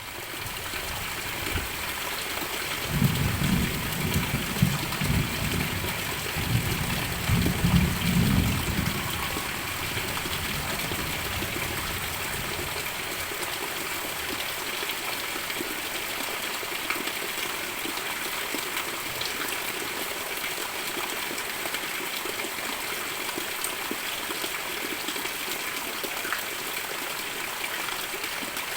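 Heavy rain pouring down in a steady hiss. A low rumble swells and fades between about three and nine seconds in.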